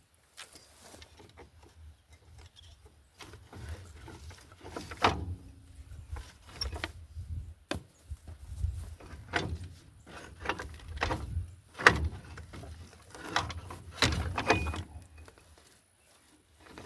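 Irregular clunks and knocks at uneven intervals over a low rumble, the sharpest about 5 s, 12 s and 14 s in.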